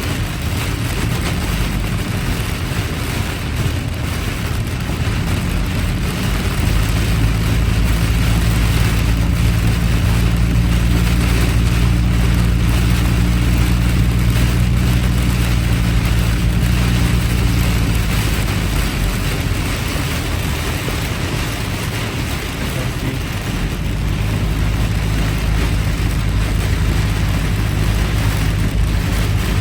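Heavy rain and tyre spray on a wet, flooded road, heard from a car in slow traffic, with a low engine drone that swells about a quarter of the way in, fades after about 18 seconds and returns near the end.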